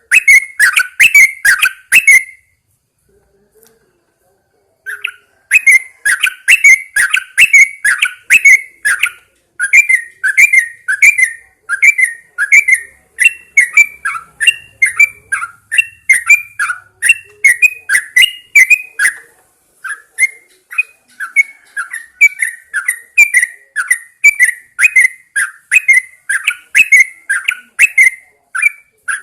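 Yellow-vented bulbul singing a long run of short, repeated notes, about two or three a second. It pauses for a couple of seconds near the start, then sings on without a break.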